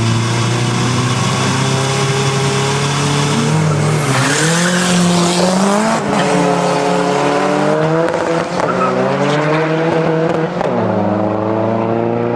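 Tuned diesel Seat Ibiza Cupra engine held at steady revs, then launching hard with a short burst of tyre noise about four seconds in. It then accelerates with the revs climbing through three upshifts.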